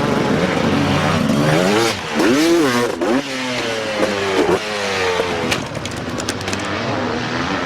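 Dirt bike engines revving, several at once, their pitch rising and falling with the throttle.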